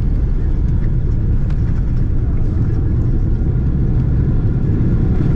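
Steady low rumble inside the cabin of a Boeing 777-300ER on the ground just after landing, engine and wheel noise as the jet rolls along.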